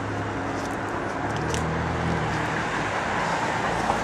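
Steady street traffic noise, with the low hum of a passing or idling vehicle engine, a little louder in the middle.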